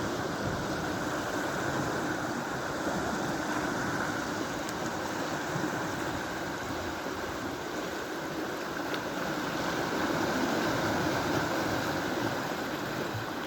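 Steady rushing of sea waves along the shore, swelling slightly in loudness now and then.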